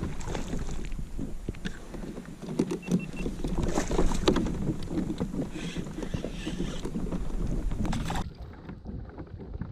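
Water splashing and knocking around a kayak as a small hooked redfish is fought and landed, with frequent short clicks and knocks and louder splashy flurries midway. The sound drops off abruptly near the end.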